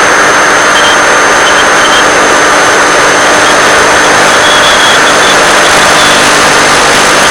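Loud, steady hiss of static from a 1.3 GHz analog FPV video link's audio channel, with a thin high whine throughout and a faint higher tone that comes and goes.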